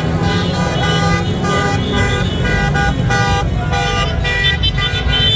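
Several car horns honking in overlapping, repeated blasts over a steady rumble of street traffic.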